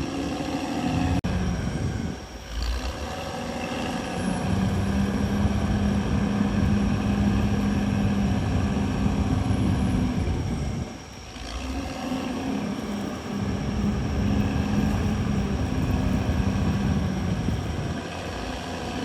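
CAT D6R XL bulldozer's diesel engine working under load, a steady low hum that dips twice, about two seconds in and about eleven seconds in, before pulling back up.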